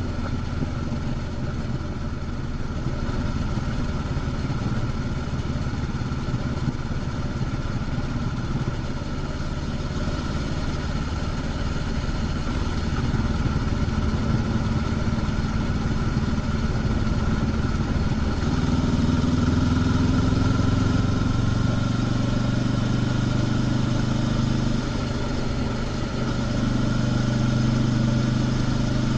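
Honda CB500X parallel-twin engine running under way with its stock exhaust, the note holding steady, then rising about two-thirds of the way in and again near the end as the throttle opens. Wind and road noise run underneath.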